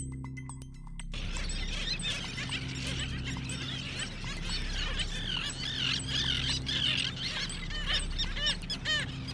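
A large flock of birds calling at once, many overlapping chirps and honk-like calls, starting abruptly about a second in and growing busier near the end. Low held music tones run underneath, and mallet-like music notes stop just as the birds start.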